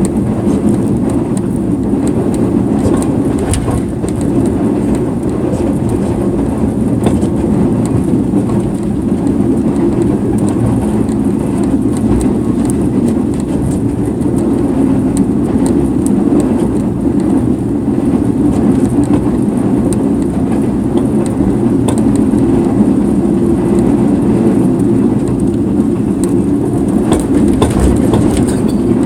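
Sleeper train running along the track: a steady rumble with scattered light clicks.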